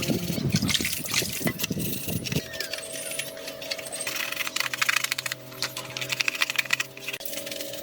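Metal tools and parts clinking and tapping against each other as they are handled in a tractor repair, with many quick clicks that come thickest in the middle.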